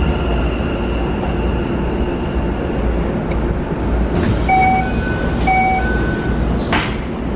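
Keikyu New 1000 series commuter train heard from inside the car: a steady rumble of wheels and running gear, with a steady whine from the Mitsubishi IGBT-VVVF inverter and motors that fades out about three seconds in. About four seconds in the public-address system switches on with a hiss, and a chime sounds twice, a second apart, the kind that opens an onboard announcement.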